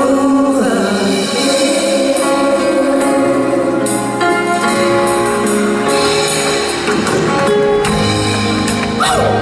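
Live band playing an instrumental passage of held chords and notes, without singing.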